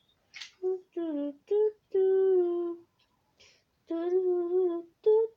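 A young voice humming a wordless tune in a string of short and held notes, with a few quick breaths in between.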